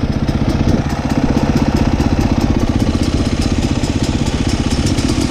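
Dirt bike engine idling steadily, with an even, rapid pulsing.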